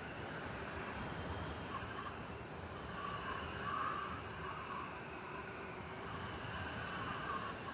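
City blizzard ambience: steady blowing wind with a faint wavering whistle over a low rumble of city traffic, swelling slightly about four seconds in.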